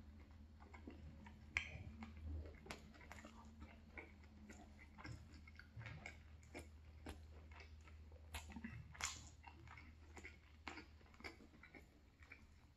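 Faint close-up chewing of saucy deep-fried chicken (chicken 65): irregular soft mouth clicks and smacks.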